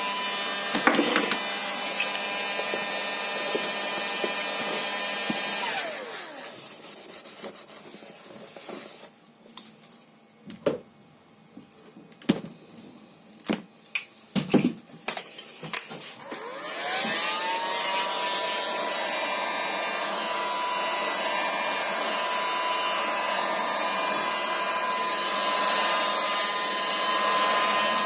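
Electric motor of a workshop machine running with a steady whine and a noisy hiss over it, winding down about six seconds in. Scattered clicks and knocks follow, then the motor spins back up about seventeen seconds in and runs steady again.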